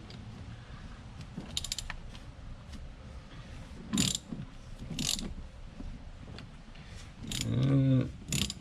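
Socket ratchet clicking in short runs as it turns out the oil filter housing cap of a BMW B58 engine, with a few sharper metallic knocks of the tool.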